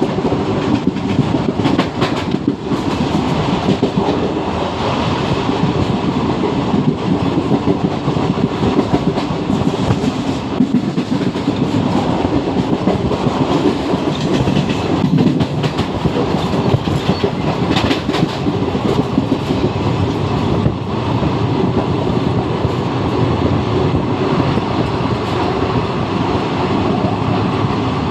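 Passenger train running steadily: a loud, even rumble of the coach with the wheels clattering over the rail joints.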